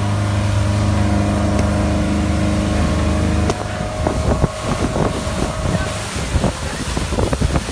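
Bayliner motorboat's engine running steadily, then dropping away sharply about halfway through. After that, water slaps and splashes against the hull, with wind on the microphone.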